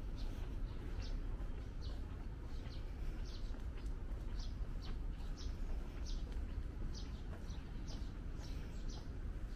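Small birds chirping in short, high calls, about two a second, over a low steady rumble.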